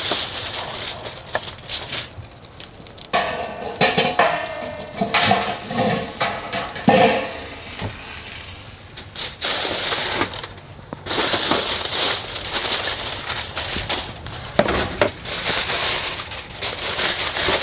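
Hot metal rib hooks and fryer basket clinking and scraping as cooked ribs are lifted out and laid down, with aluminium foil rustling and crinkling under them. Irregular clatters and rustles, with some ringing metallic tones in the first half.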